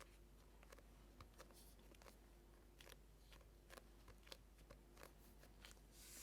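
Faint, irregular small clicks and taps, about a dozen, scattered over a quiet background.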